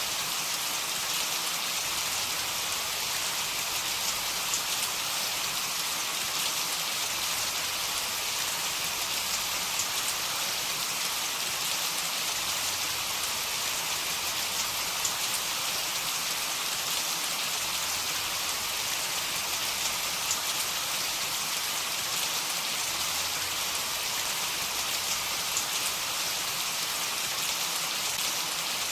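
Heavy rain falling steadily: a dense, even hiss of drops with faint scattered ticks, and no thunder.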